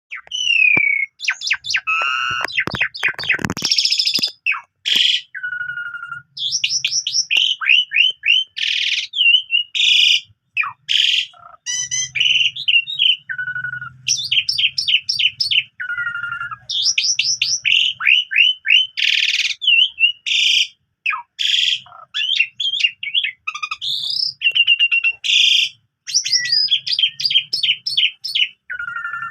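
Asian pied starling singing a long, varied, nearly unbroken song of clear whistles that glide up and down, rapid trills and harsh rasping notes. The song is a full repertoire of mixed phrases, typical of a well-conditioned bird in full song.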